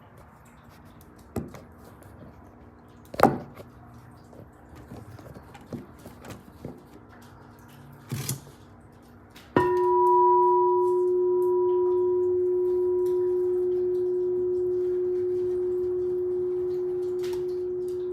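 A few light knocks and clicks as the instruments are handled. About nine and a half seconds in, a glass singing bowl or pyramid is struck and rings with one steady, low, pure tone. A fainter higher tone fades within a few seconds, while the main tone holds on and dies away only slowly.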